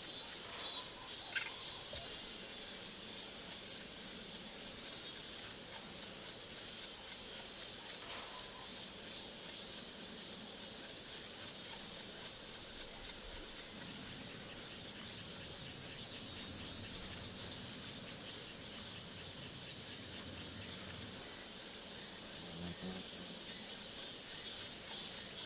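Steady chorus of insects chirping, a dense high pulsing trill that carries on throughout, with a single sharp click about a second in.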